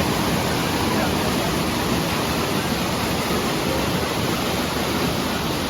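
Steady rushing of a waterfall, an even, continuous roar of falling water.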